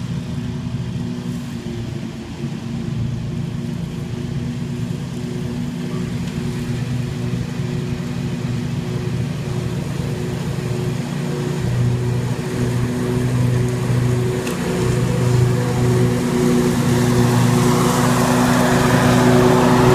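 Scag Tiger Cat II zero-turn mower running at a steady pitch while mulching leaves. It grows louder toward the end, with more rushing noise over the engine.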